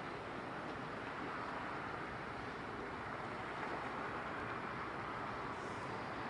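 Steady, even rushing noise of a passing container ship's engine and wash, with no distinct beat or tone.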